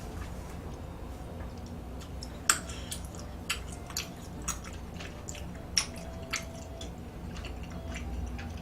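Close-up eating sounds: chewing with scattered wet mouth clicks and smacks over a low steady hum.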